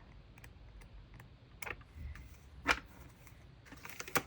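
A few light clicks and taps of paper sheets and packaging being handled, the sharpest about two and a half seconds in and just before the end.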